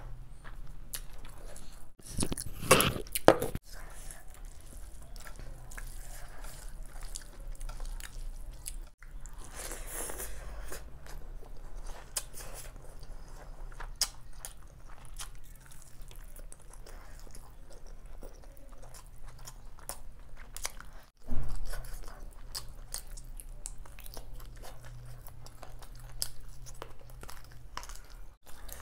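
Close-miked chewing of handfuls of chicken biryani eaten with the fingers: wet mouth smacks and crunchy bites, steady throughout, with louder bites about two seconds in and again about twenty-one seconds in.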